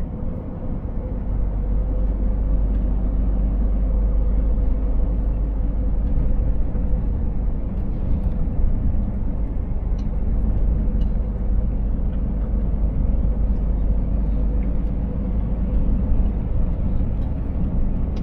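Scania 500S truck on the move: its 13-litre six-cylinder diesel and road noise make a steady low rumble, getting a little louder over the first second or two, with a faint steady whine throughout.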